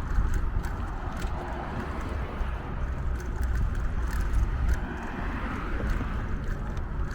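Wind buffeting the microphone with a deep steady rumble, under tyre and road noise from a moving bicycle, with scattered light clicks and rattles.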